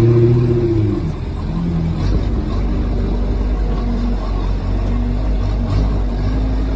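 A vehicle running with a steady low drone, with a brief pitched sound near the start that rises and falls.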